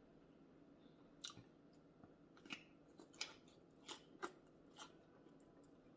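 Close-miked chewing of crunchy food, with about six sharp crunching bites spread through the middle of the stretch.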